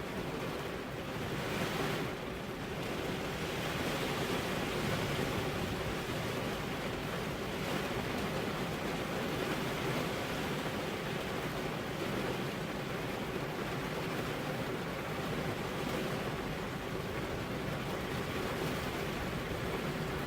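Steady rain falling on a car's glass windows, an even, continuous hiss.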